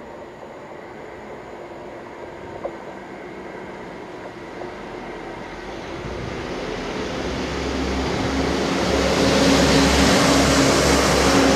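Network Rail multi-purpose vehicle pair (DR98960 + DR98910) approaching and passing close by: a steady engine hum with rising wheel and track noise, growing louder from about six seconds in and loudest in the last few seconds.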